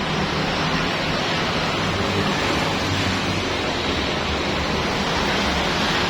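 Steady rush of water spray over the low hum of a petrol-engine washer machine running.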